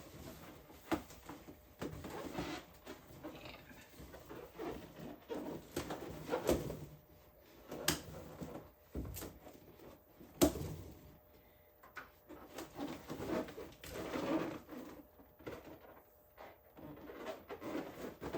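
Latex balloon being stretched and handled by hand, with irregular rubbery squeaks and rustling and a few sharp snaps, as a stuffed toy is worked inside it.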